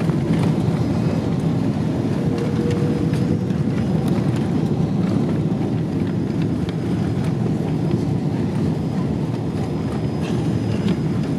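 Boeing 777-200 cabin noise as the airliner rolls on the ground after landing: a steady low rumble with scattered light clicks and rattles.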